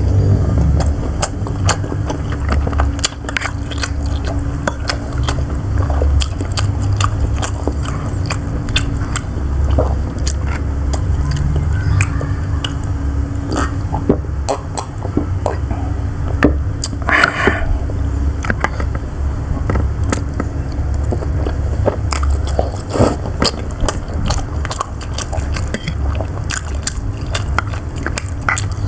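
Close-miked eating of siomay: chewing and biting with frequent wet mouth clicks, over a steady low hum.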